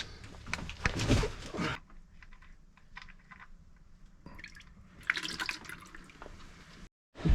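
Liquid dripping and trickling, with small clicks and knocks of handling.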